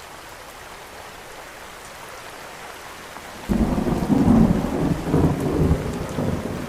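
Steady rain hiss, then about three and a half seconds in a sudden loud, low rolling rumble of thunder that carries on with the rain.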